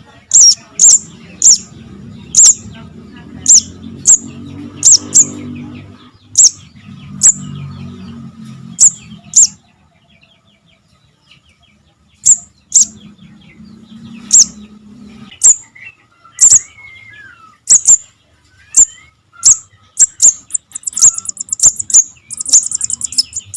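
Young spiderhunter (sogok ontong) calling: sharp, very high single chips repeated irregularly, with a pause of about two seconds midway and fast chattering runs near the end.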